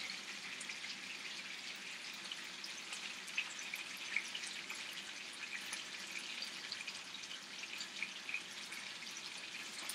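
Chicken thighs frying in bacon fat in a nonstick pan, bubbling aggressively: a steady sizzle scattered with many small pops and crackles.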